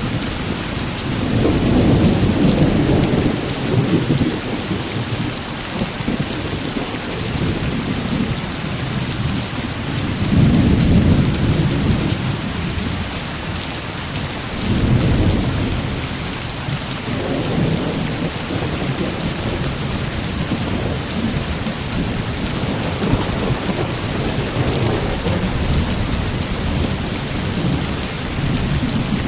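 Heavy rain falling steadily, with low thunder rumbling in several slow swells, loudest a couple of seconds in and again around ten seconds in.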